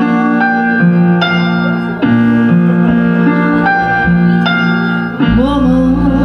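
Live piano-tone chords on a keyboard, held and changing about every two seconds. About five seconds in, a deep bass comes in under them.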